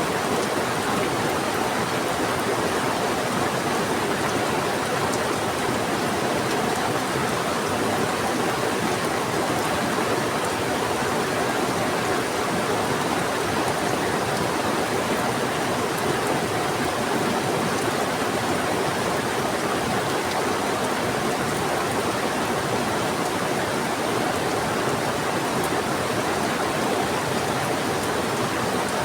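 Heavy rain falling together with a fast-flowing river, a steady even rush of water with no breaks.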